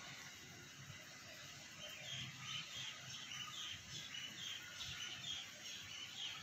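Faint chirping, likely a small bird: a quick run of short high chirps, about three a second, starting about two seconds in, over low background hiss.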